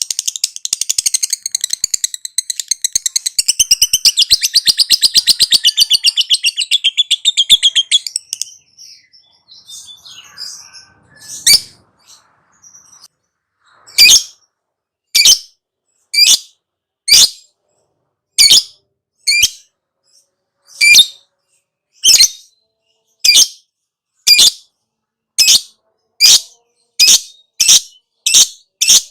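Lovebird giving a long, very rapid chattering trill, the 'ngekek' song, for about eight seconds. After a short pause it switches to single sharp chirps, about one a second, that come faster near the end.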